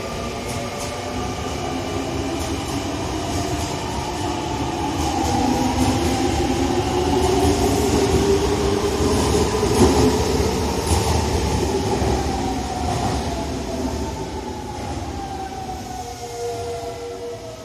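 Semboku Rapid Railway 5000 series electric train pulling out of the station. Its traction motors give several whining tones that glide up in pitch and then fall again, over rumbling wheels on the rails. The sound is loudest about halfway through and fades near the end.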